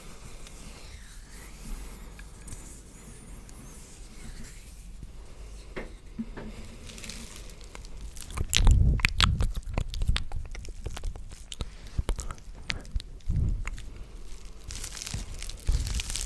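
Close-miked ASMR trigger sounds: fairly quiet at first, then from about seven seconds in a dense run of crackling clicks with a few soft, dull thumps.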